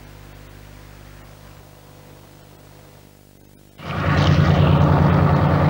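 Faint steady low hum, then about four seconds in a loud train sound cuts in abruptly: a steady, deep engine drone with rail noise over it.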